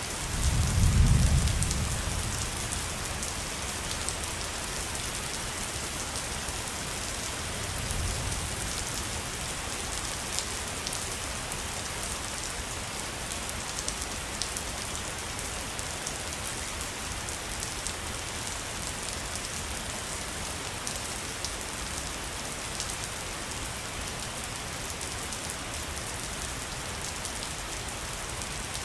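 Waterfall: a steady rush of falling water with fine splashing, and a brief low rumble about a second in, fainter again near eight seconds.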